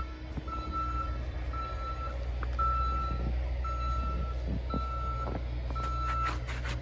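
A vehicle's reversing alarm beeping at one steady pitch, about once a second, over a steady low rumble. A few sharp clicks come near the end.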